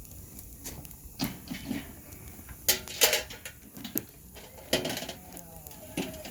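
Firewood crackling in a campfire, with a handful of sharp pops spread irregularly through it, the loudest about three seconds in.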